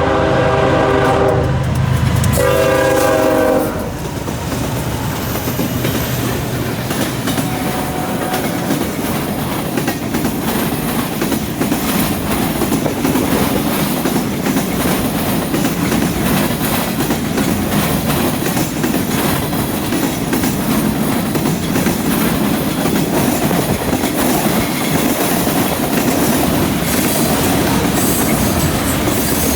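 Diesel freight locomotive horn sounding a chord, with a short break about a second and a half in, cutting off about three and a half seconds in. Then the train rolls past with a steady rumble and the wheels clattering over rail joints and the junction switch.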